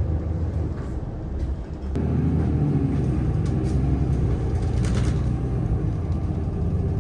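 City bus engine and road noise heard from inside the bus: a steady low rumble that grows louder about two seconds in.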